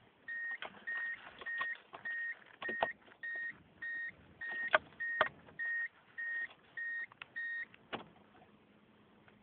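A car's warning buzzer beeping steadily, about two beeps a second, with a few sharp clicks and knocks among the beeps. The beeping stops about eight seconds in, leaving a faint low hum.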